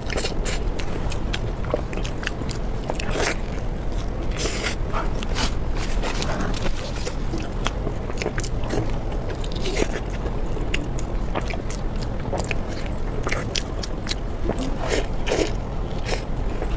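A person chewing and biting food close to the microphone, with irregular sharp wet clicks and smacks throughout.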